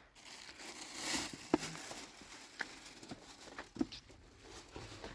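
Rustling with a few scattered soft knocks and taps, as of things being handled and set down.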